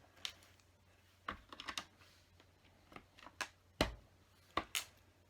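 Small plastic LEGO pieces clicking and tapping as they are handled and pressed into place, in irregular sharp clicks, with the loudest one a dull knock just under four seconds in.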